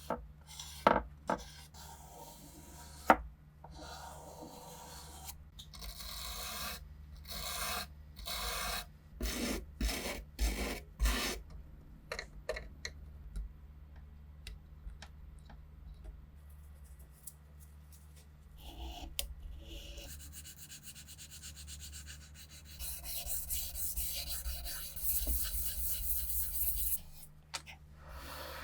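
Hand rubbing and scraping strokes on rusty rifle parts during restoration. Two sharp knocks come near the start, then a run of short separate strokes, and a longer stretch of steady abrasive rubbing near the end.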